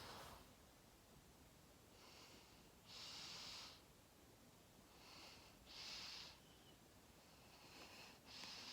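Faint breathing through the nose close to the microphone: three breaths about three seconds apart, each a short intake followed by a longer out-breath.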